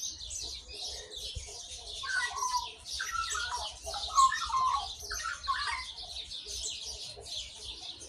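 Female Australian magpie calling in a hollow-sounding warble of short, varied notes for a few seconds in the middle, over a continuous high-pitched twittering of other birds.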